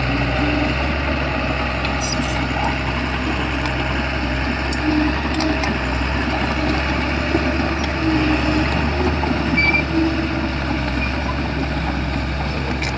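Shantui bulldozer's diesel engine running steadily, with intermittent clicks and short squeaks from the machine.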